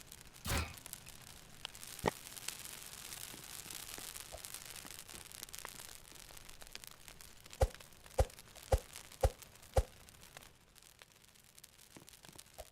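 A series of dull knocks: one just after the start, a sharp click about two seconds in, then five knocks in quick succession, about two a second, with a soft hiss between.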